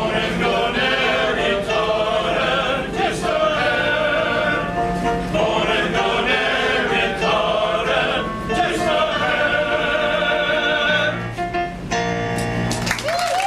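Male chorus singing a song in harmony, ending on a held chord near the end.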